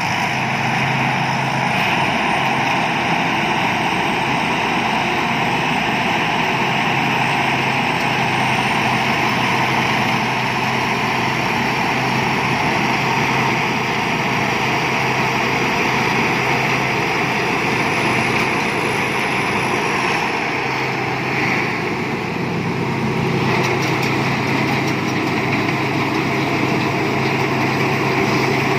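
Thai Seng Yont rice combine harvester running steadily, its engine and machinery making a continuous loud drone, with a brief dip in level about three-quarters of the way through.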